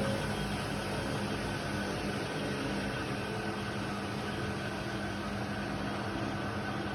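Indesit WIDL 106 washer-dryer running with a steady hum and whir, holding a constant pitch.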